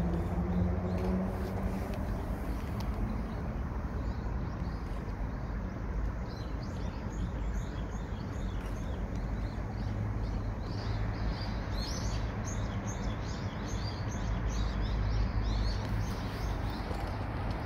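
Small birds chirping over and over, many short, high calls that grow busier from about five seconds in, over a steady low rumble. A low hum fades out about a second in.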